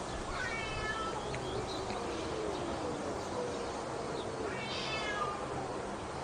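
Cats yowling in a fight standoff. A short wavering cry comes about half a second in, then a long, low, drawn-out moan, then a higher cry that falls in pitch about five seconds in, over a steady hiss.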